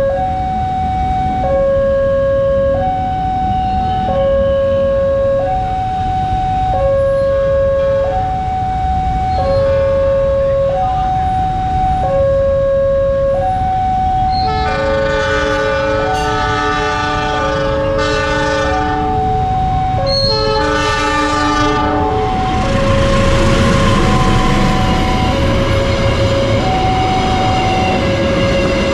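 Level-crossing warning alarm sounding its two alternating tones, about a second and a half per cycle. About halfway through, a train's horn sounds a long multi-note blast and then a shorter one. The train then runs through the crossing with a loud rumble of wheels and engine.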